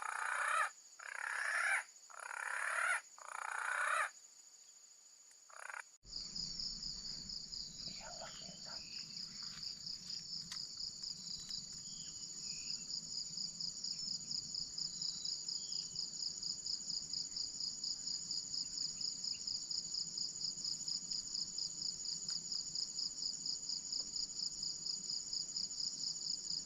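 Four loud, harsh bird calls about a second each, then after a short gap a steady, high-pitched insect chirr pulsing rapidly, with a few brief bird chirps early in it.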